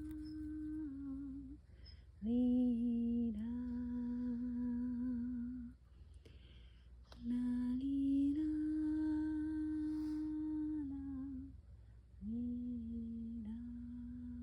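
A woman humming long, steady held notes in slow phrases of a few seconds each, breaking briefly between phrases. A low wind rumble on the microphone runs underneath.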